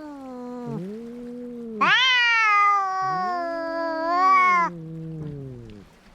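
Cats yowling at each other in a fight. A long, loud caterwaul starts about two seconds in and lasts nearly three seconds, rising in pitch at its end. A second, lower moaning voice wavers beneath it, and the calls fade out near the end.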